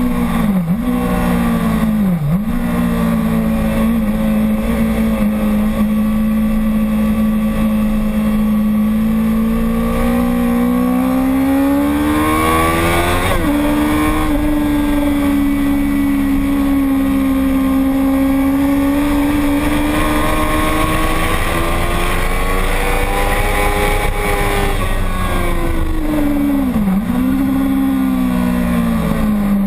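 Racing motorcycle engine held at high revs on a track, its pitch rising and falling slowly with the throttle. There are brief sharp dips in pitch, twice near the start and once near the end.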